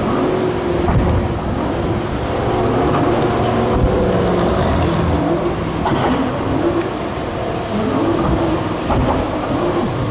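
Tuned Audi RS6 Avant's twin-turbo V8 running loud at low speed, its revs rising and falling several times as it drives off.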